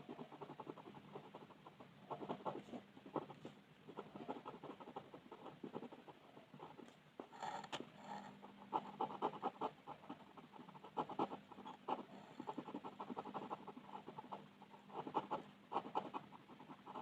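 Coloring on paper: bursts of rapid back-and-forth scratchy strokes with short pauses between them, over a faint steady hum.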